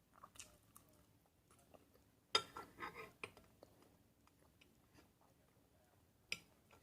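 Close-miked eating: a bite and a short spell of chewing about two seconds in, with scattered small clicks around it and one sharp click near the end.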